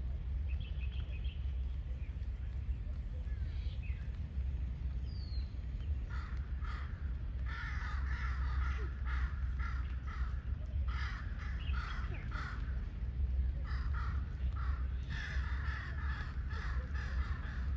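Birds giving harsh calls in rapid series, in two long bouts, over a steady low rumble.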